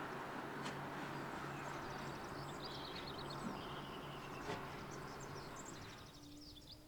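Meadow ambience: small birds chirping and trilling in quick runs over a steady rushing hiss with a low hum. The hiss and hum fade out about six seconds in, leaving the birds.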